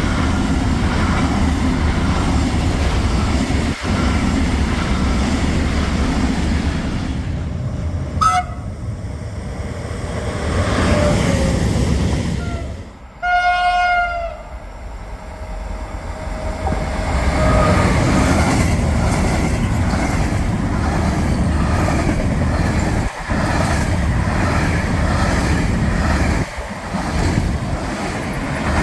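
Freight train running past with a steady heavy rumble. Its horn gives a brief toot about eight seconds in and a longer, louder blast around thirteen seconds, after which the rumble builds again.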